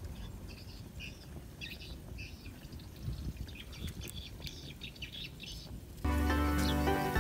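Small birds chirping in short repeated calls, over a low rumble. About six seconds in, guitar music starts.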